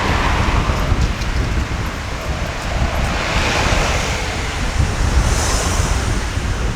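Wind buffeting the microphone with a deep rumble, over the rushing wash of sea waves, which swells twice.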